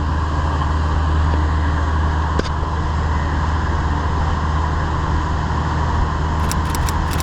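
Condensing unit of a True commercial two-door refrigerator running: a steady compressor hum with condenser fan noise over it. A few light clicks come near the end.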